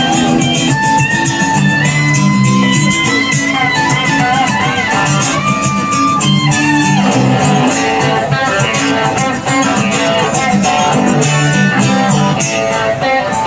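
Live rock band playing an instrumental break: a lead guitar plays long held, bending notes over bass and drums with steady cymbal hits.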